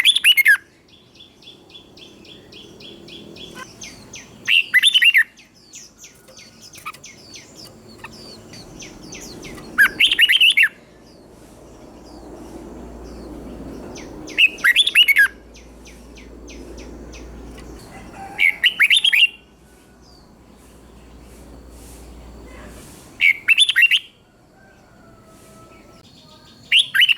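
Red-whiskered bulbul singing: loud, short whistled phrases, each under a second, repeated about every four to five seconds, with softer rapid chirping and twittering in between.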